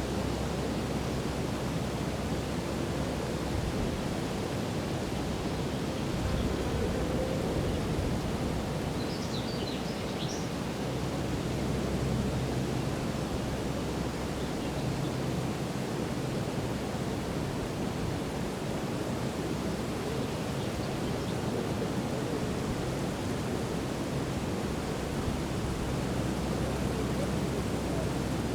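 Steady rushing outdoor ambience in open countryside, with one short burst of high bird chirps about a third of the way through.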